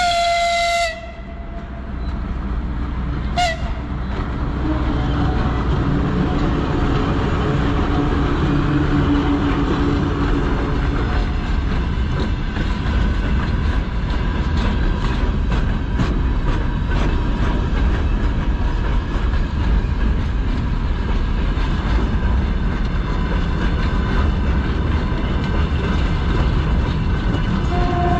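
VL11 electric freight locomotive sounds its horn for about a second, then gives a short second blast. Its rumble grows louder as it passes, and a long train of open gondola wagons follows, the wheels clicking steadily over the rail joints.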